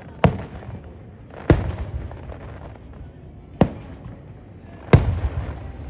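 Fireworks going off: four sharp bangs spaced one to two seconds apart, each trailing off in a rumbling echo.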